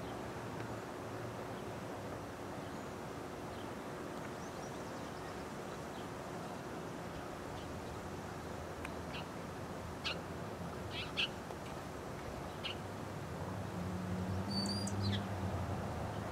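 Outdoor ambience with a steady background hiss and a few short, high bird chirps in the second half. A low hum rises near the end.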